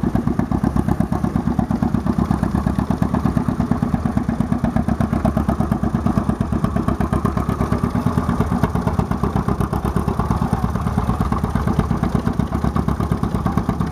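Antique farm tractor engine idling close by, a steady, even beat of firing pulses throughout.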